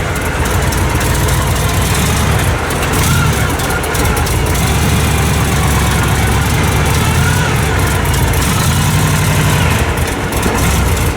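A vehicle engine running steadily at low speed, a low, even rumble.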